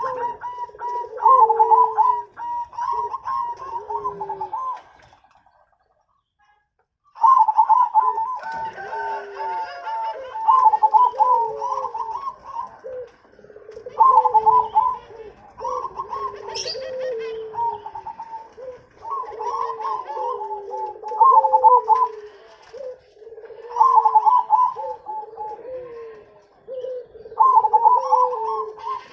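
Zebra doves (perkutut) cooing in repeated phrases of quick staccato notes, overlapped by a lower, curving cooing voice, so more than one bird is calling. The calling stops for about two seconds around five seconds in, then carries on.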